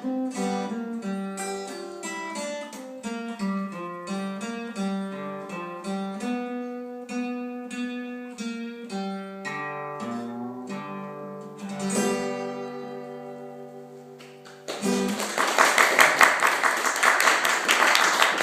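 Guitar picking single notes and chords; a last chord about twelve seconds in rings out and fades, then an audience breaks into applause near the end.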